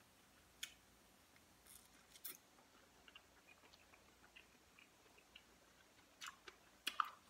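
Faint mouth sounds of someone chewing food, with a few sharp, wet clicks and smacks scattered through, the loudest pair near the end.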